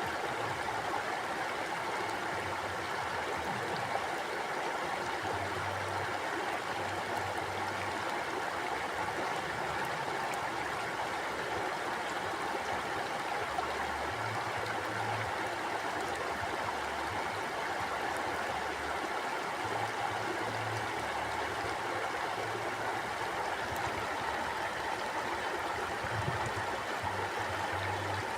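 Mountain stream flowing over rocks: a steady, even rush of water with no pauses, and a faint low rumble that comes and goes beneath it.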